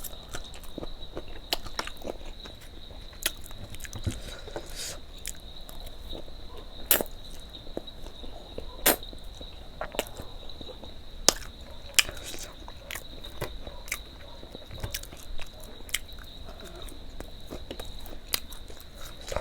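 Close-miked eating: chewing and biting food, with sharp clicks at irregular intervals, roughly every second or two. A faint steady high-pitched whine sits underneath throughout.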